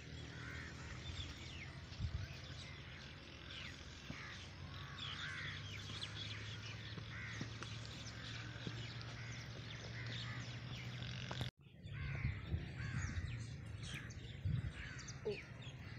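Birds chirping and calling, faint, with many short rising and falling chirps over a low steady hum; the sound drops out for a moment about three-quarters of the way through.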